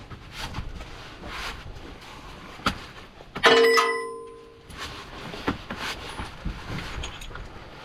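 Metal hand tools clicking and knocking against car parts, with one loud ringing metallic clang about three and a half seconds in that dies away over about a second.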